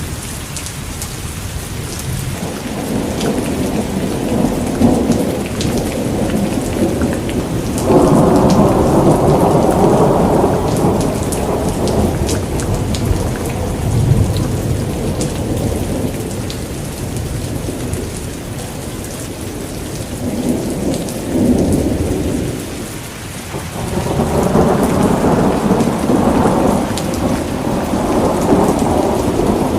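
Steady rain hissing down through a thunderstorm, with rolling thunder rumbles. One rumble breaks in suddenly about eight seconds in, and another builds and carries through near the end.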